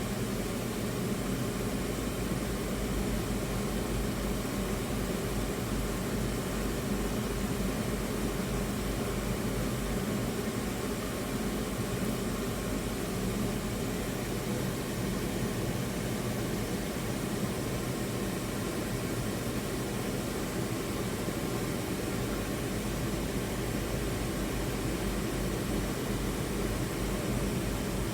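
Steady rushing of a river in flood, swollen with typhoon rainwater.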